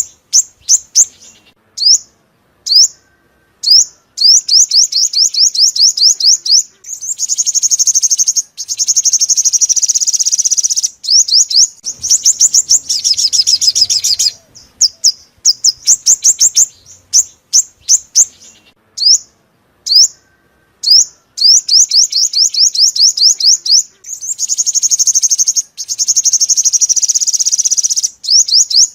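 Sunbird song: high, rapid trills of quick sweeping notes in phrases broken by short pauses, twice running into a longer, dense buzzy stretch.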